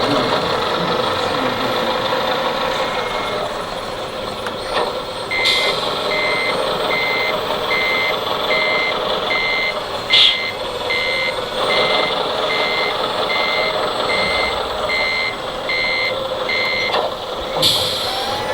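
Reversing beeper of an RC model truck or construction machine's sound module, beeping about twice a second as the model backs up, over the steady engine sound of the model.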